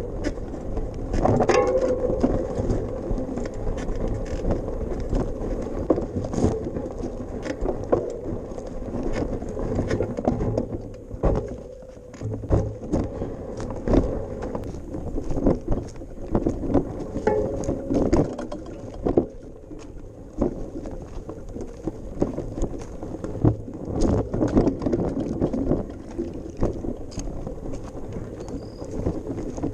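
Bicycle rolling over a bumpy path: a steady rumble with frequent rattles and knocks from the bike, easing briefly a third of the way in.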